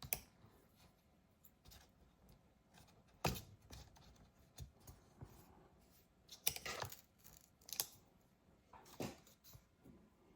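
Tools and small parts being handled on an opened MacBook Pro A1502 during battery-replacement disassembly: faint scraping with a handful of sharp clicks and knocks spread over several seconds, a short cluster of them just past the middle.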